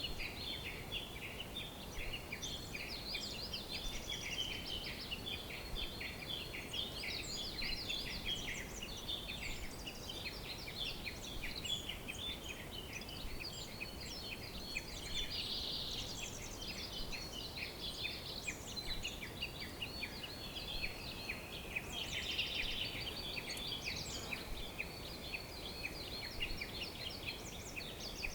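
Dense chorus of many songbirds chirping and trilling at once, with short overlapping calls and no pause, over a faint steady background hiss.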